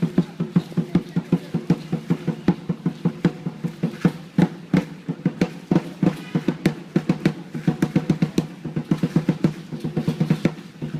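Drums beaten in a fast, steady rhythm, about five strikes a second, for a street dance.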